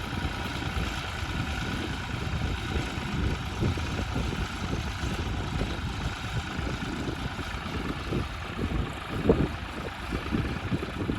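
A heavy engine running steadily, a continuous low rumble with a few louder moments near the end.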